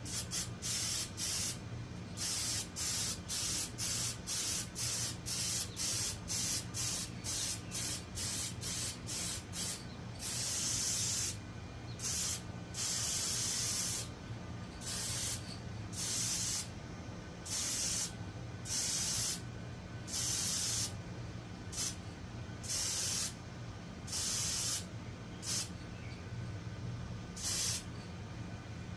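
Aerosol can of engine gasket coating spraying in repeated hissing passes: short bursts about two a second at first, then longer bursts of about a second each, laying on even coats.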